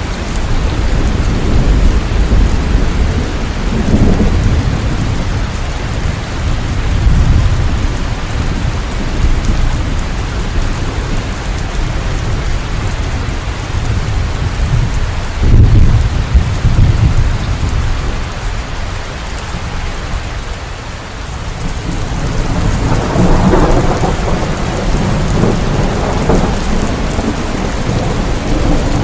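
Steady heavy rain with rolling thunder rumbling several times. The loudest, sharpest thunderclap comes about halfway through, and another long rumble swells near the end.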